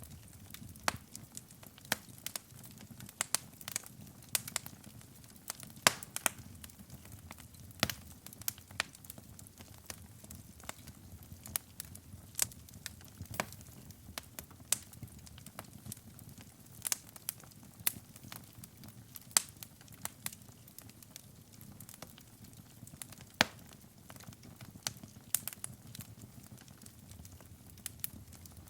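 Wood fire burning in a fireplace, crackling with many irregular sharp pops over a low, steady rumble of the flames.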